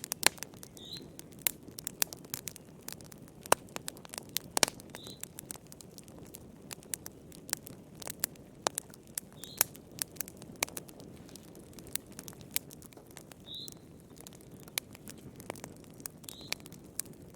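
Wood fire burning in a fireplace: irregular sharp crackles and pops over a steady low rush of flame. A brief high chirp recurs about every four seconds, five times in all.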